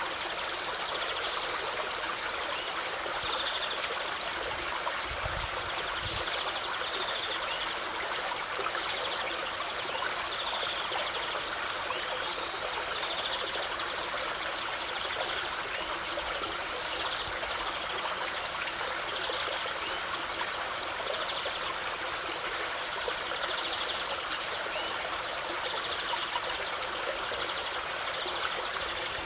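River water flowing steadily: a continuous rushing and trickling with no pauses or changes.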